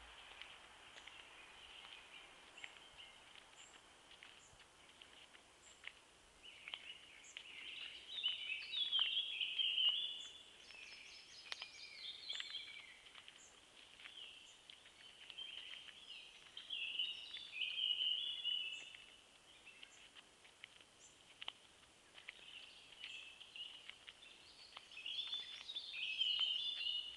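Forest songbirds singing: several bursts of quick, high chirping phrases a few seconds apart, the loudest about eight to ten seconds in and near the end, over faint background chirps.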